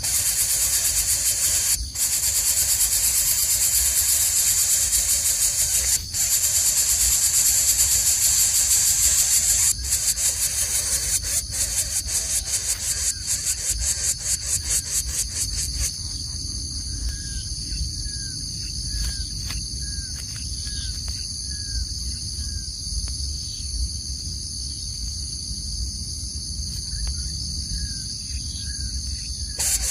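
Dense, high-pitched chorus of insects, such as cicadas or crickets, trilling with a rapid pulse. From about halfway, a run of short soft chirps repeats under it.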